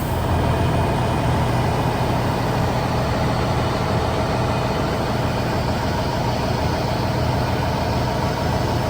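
Heavy farm-vehicle engine running at a steady speed, an even low hum.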